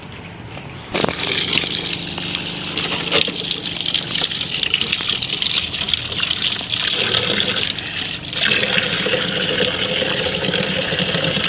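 Water running out in a steady gushing stream, starting suddenly about a second in.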